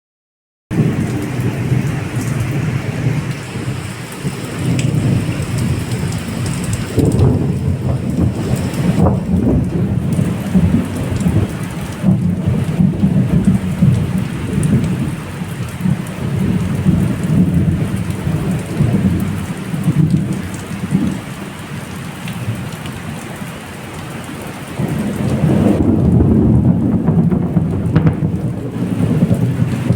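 Heavy rain pouring down steadily, with deep thunder rumbling through it that swells and fades, growing louder near the end.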